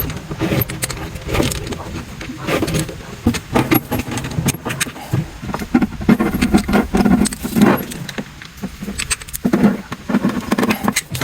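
Irregular clicks, knocks and light metallic rattling as a dishwasher hose fitting is tightened by hand.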